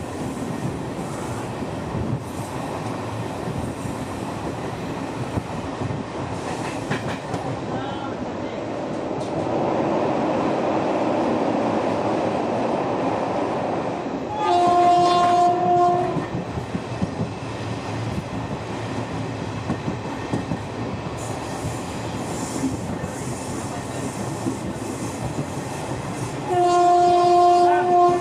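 Express train running on the rails with a steady rumble and clatter that swells for a few seconds midway. A train horn sounds twice, each blast about a second and a half long, one about halfway through and one near the end.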